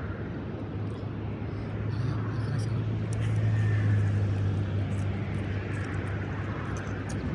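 A distant engine drone passing by: a steady low hum that swells to its loudest about four seconds in and then fades.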